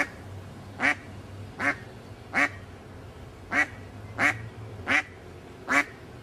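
Duck quacking, about eight single quacks in an even series, roughly one every three-quarters of a second, over a low steady background hum.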